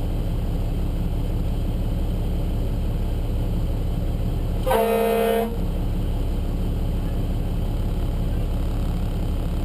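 Steady low engine and road rumble of a fire engine under way, heard from inside the cab, with one short horn blast a little under five seconds in.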